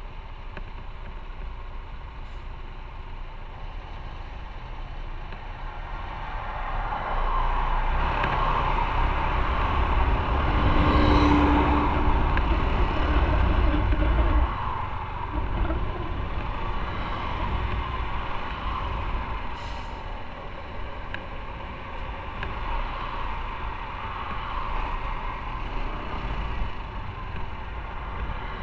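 Motorcycle riding in traffic, heard from the bike: engine and road noise running steadily. A louder low rumble of nearby heavy traffic builds in the middle and drops off suddenly about halfway through.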